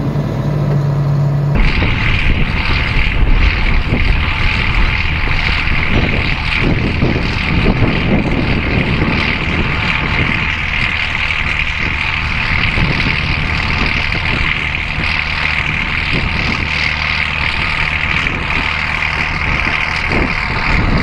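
John Deere 4450 tractor's six-cylinder diesel engine running steadily under load, pulling a corn planter: a continuous drone with a strong hiss. The sound changes abruptly about a second and a half in and then holds steady.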